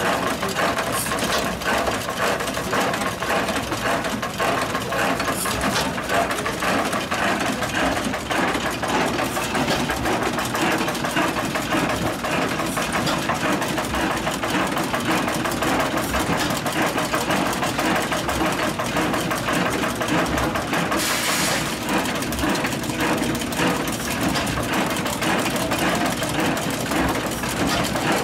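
Antique Page stationary gas engine running steadily under load, driving a grist mill by flat belt, with a continuous fast mechanical clatter of engine, belt and mill. A short hiss cuts in about two-thirds of the way through.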